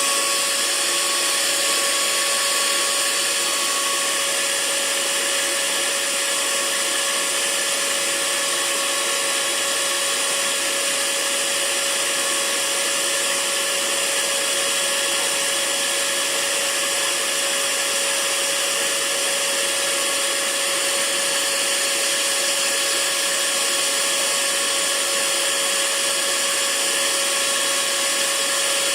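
Hair dryer running steadily: a constant rush of air with an even motor whine.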